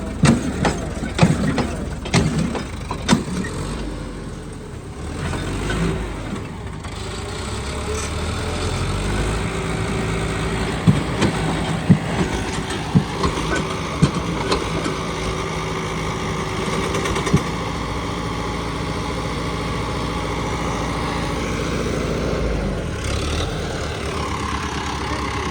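A tractor's diesel engine runs steadily. Several sharp clanks are heard through the middle of the stretch.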